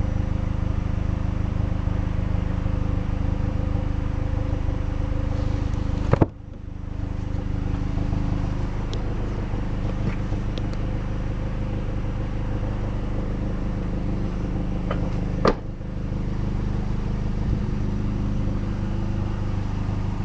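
A car engine idling steadily. Two sharp clicks come through, one about six seconds in and one about fifteen seconds in.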